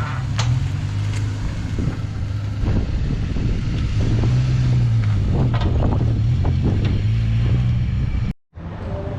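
Toyota Corolla rally car on the move, its engine running with the pitch rising and falling, over a run of sharp knocks and clatters from the car around the middle. The knocking is what the crew takes for a knock in the front end, which they trace to a loose lower control arm.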